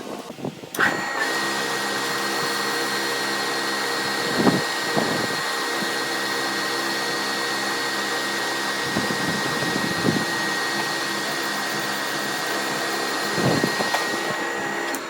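An electric shop power tool's motor starts about a second in and runs at a steady speed with a high, even whine. A few brief louder contact sounds come over it, and it cuts off right at the end.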